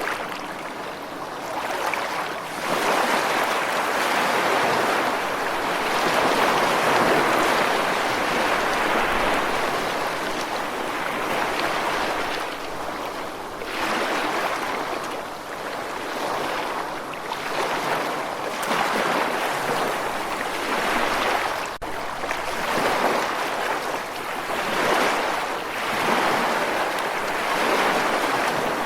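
Ocean surf: waves washing in and breaking in a steady hiss that swells and ebbs every few seconds.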